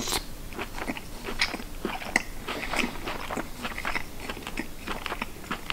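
A person biting a piece of grilled chicken off a shashlik skewer, then chewing it: a run of short, irregular mouth clicks and smacks, several a second.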